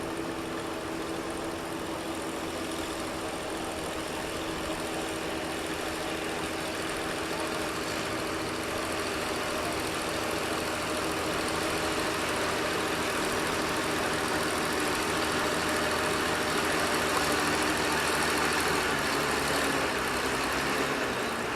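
Oliver 70 tractor's six-cylinder engine running steadily under load on a pull, growing gradually louder and then dropping off near the end.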